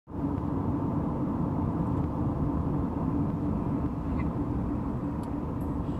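Steady low rumble of a vehicle driving alongside a moving freight train, with a steady hum running through it.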